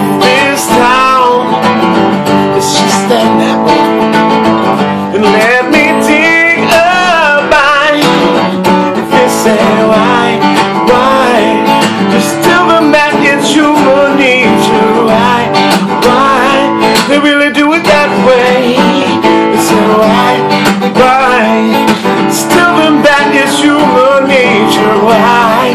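Strummed acoustic guitar playing an instrumental passage of a song, with a wavering melody line over the chords.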